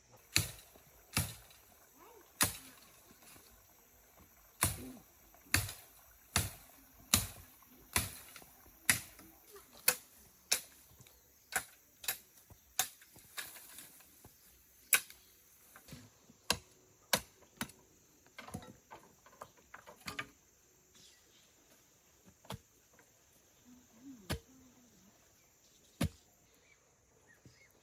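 A run of sharp snaps, about one every 0.7 seconds for the first half, then fewer and farther apart until the end.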